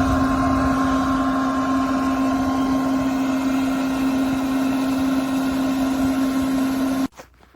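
Hood hair dryer's blower running with a steady airy rush and a low hum, switched off about seven seconds in, followed by a few faint clicks.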